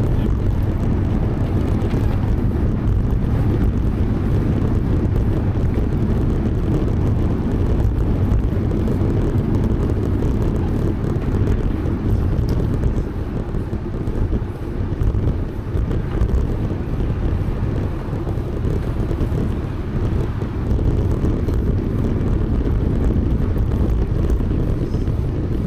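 Steady wind rumble on the microphone of a camera riding along on a moving bicycle, easing briefly about halfway through.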